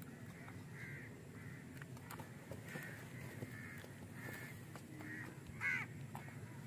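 A bird calling over and over in short calls, with one louder call just before 6 s; a few faint clicks from handling lie underneath.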